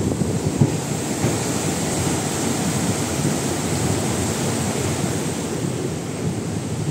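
Steady rushing noise of a train running over a river bridge, with wind on the phone's microphone and a few sharp knocks near the start.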